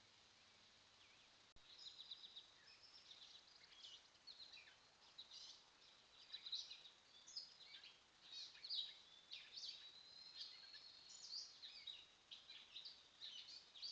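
Songbirds singing and chirping, many short calls and trills overlapping with one longer held whistle, picked up by a trail camera's microphone. The birdsong cuts in with a click about a second and a half in, after faint hiss.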